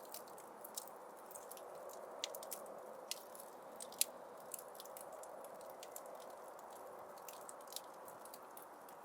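Wood fire burning in a fireplace: irregular sharp crackles and pops over a steady low rush of the flames, with one louder pop about four seconds in.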